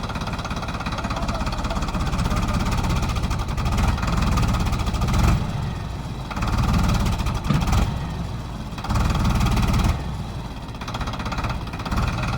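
Tractor diesel engine running hard, revving up and down in repeated surges as the stuck tractor strains to pull free.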